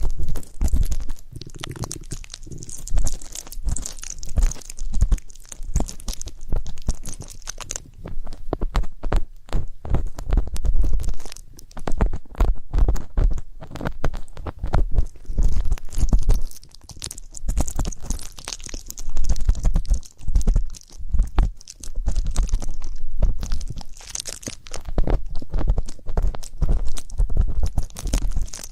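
Ear pick scratching and rubbing in ear-cleaning ASMR: a dense, irregular run of close-up scratches and clicks over a low rumble.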